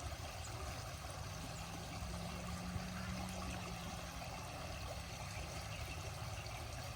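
Steady running water with a low rumble underneath.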